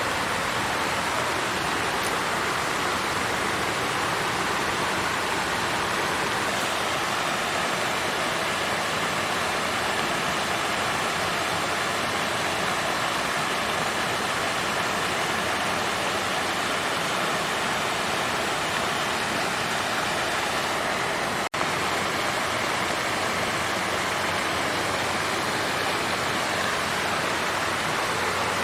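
Water flowing and splashing steadily in a fountain, an even rushing sound, with an instant's dropout about three-quarters of the way through.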